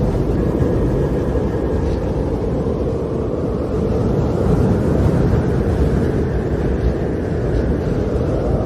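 Storm wind of a snowstorm blowing hard: a steady, deep rush of noise that swells slightly a few seconds in.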